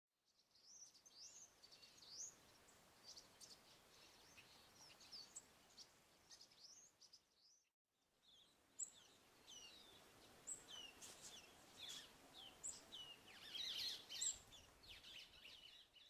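Faint high bird chirps and short twittering calls, many short sweeping notes over light outdoor background noise, broken by a brief gap about halfway and busiest near the end.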